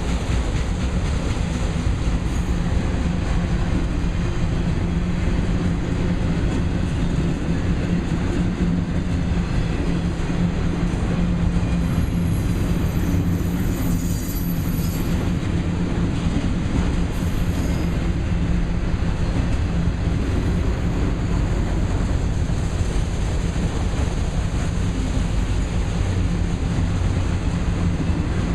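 Freight train of auto rack cars rolling past, a steady rumble of steel wheels on the rails. A thin, high wheel squeal rises briefly about halfway through.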